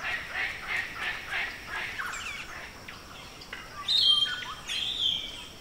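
Wild birds calling in forest: a run of short chirps, about three a second, then gliding chirps. About four seconds in comes a loud, steady high whistle that holds for about a second and a half.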